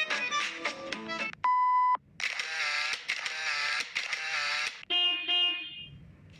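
A run of short stock sound effects played back one after another: a snatch of music, then a single steady censor-style beep about a second and a half in, then longer effects with a wavering pitch that fade out near the end.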